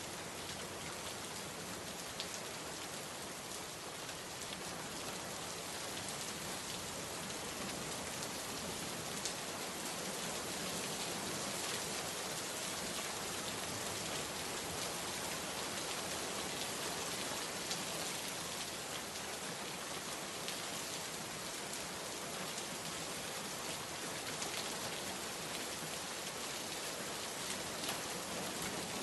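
Steady heavy rain falling on surfaces, a dense even hiss with many small drop ticks through it.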